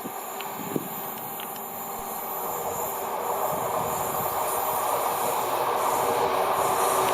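A train approaching on the line, its rushing wheel and running noise growing steadily louder.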